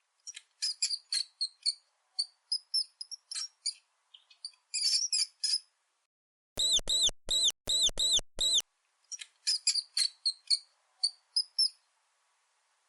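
Mouse squeaking: scattered bursts of very short, high-pitched squeaks. In the middle comes a run of about six longer squeaks, each rising then falling in pitch.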